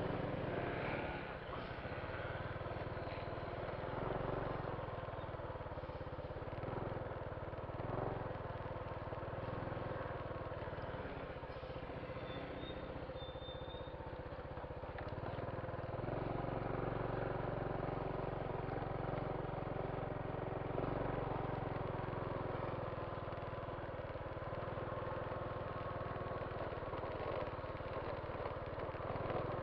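Motorcycle engine running steadily while riding, with a low rumble under it.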